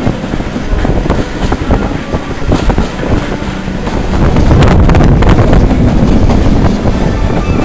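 Heritage railway train in motion, heard from on board the carriage: a steady rumble of wheels on the rails with frequent clicks, growing louder about four seconds in.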